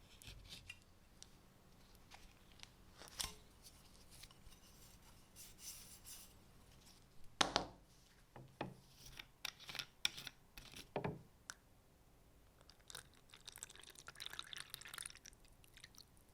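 Quiet hand work on small objects: scattered clicks and knocks, the loudest about seven and a half seconds in, with a rustling scrape near the end.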